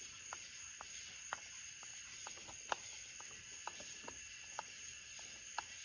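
Light, irregular clicks and ticks of a screwdriver working a screw tight on a carburetor fitting, about two or three a second, over a steady high hiss.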